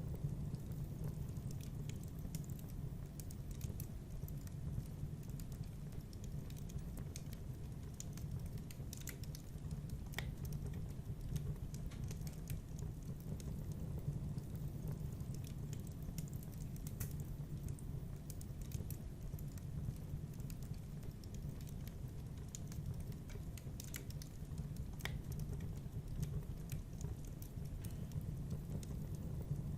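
Wood fire in a fireplace crackling: a steady low rumble with scattered sharp pops, a few of them louder.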